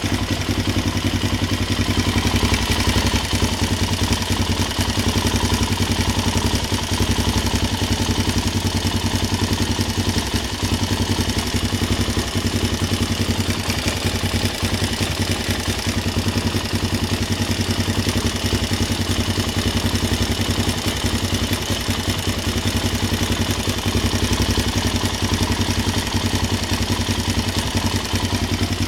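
Suzuki LT-Z400 quad's single-cylinder four-stroke engine idling steadily with a fast, even ticking noise over the engine sound.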